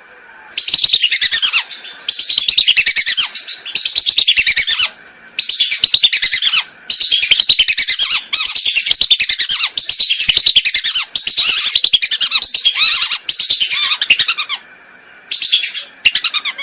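Whistling duck (belibis) calls, used as a hunting lure: about a dozen loud bouts of rapid, chattering whistles, each about a second long and falling in pitch, with short gaps between them.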